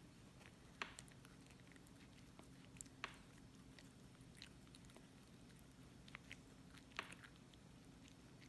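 A five-week-old Jindo puppy gnawing on a kkwabaegi chew: faint, scattered clicks and crunches of teeth on the treat, a few sharper ones about a second in, at three seconds and near the end, over a low steady hum.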